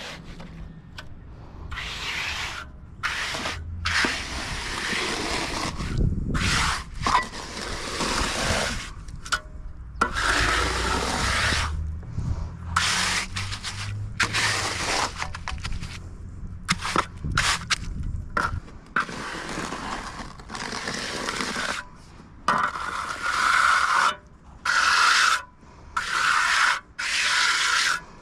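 Trowel scraping and smoothing wet concrete on a chimney crown in repeated strokes, each a short rough scrape, coming in separate bursts near the end.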